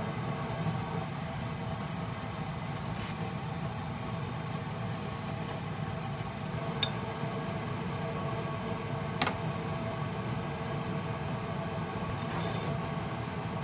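A steady low mechanical hum with two light clinks of glass or dishware, about seven and nine seconds in.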